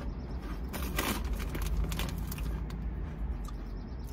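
Crunchy tortilla chip being bitten and chewed, a cluster of sharp crunches about a second in and a few more around two seconds, over a steady low rumble.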